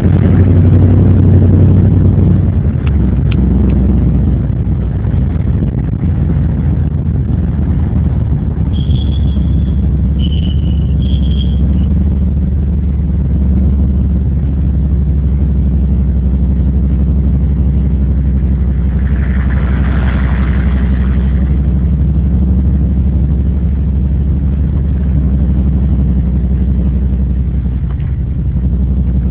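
Chevrolet Caprice Classic's V8 heard from inside the cabin while driving, a steady low drone that is a little louder in the first few seconds. Three short high chirps come about nine to twelve seconds in.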